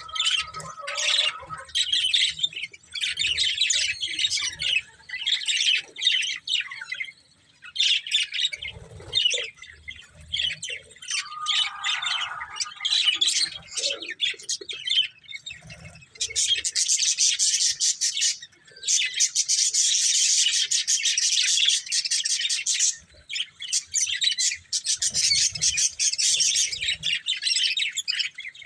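Budgerigars chirping and chattering in quick, scratchy runs, with a long unbroken stretch of warbling past the middle.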